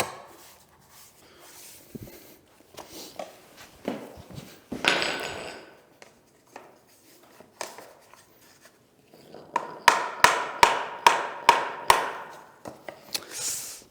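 Vinyl click planks being handled and knocked into place: scattered knocks and a rustling scrape about five seconds in, then a quick run of about eight hammer strikes on a tapping block to close the joints, near the end.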